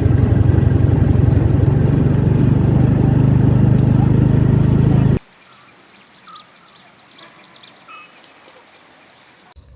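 A loud, steady rushing noise that cuts off suddenly about five seconds in, followed by quiet outdoor ambience with a few faint bird chirps.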